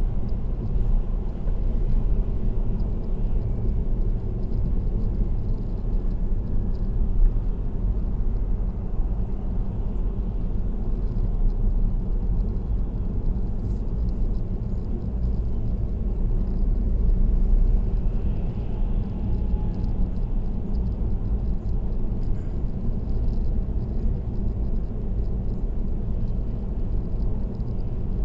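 Steady road and tyre noise with a low rumble from a car cruising at expressway speed.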